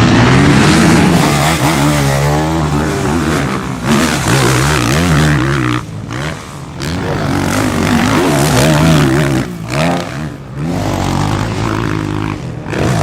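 Motocross bike engines revving hard, the pitch rising and falling as the riders work the throttle. The sound is cut off briefly a few times where the throttle is shut.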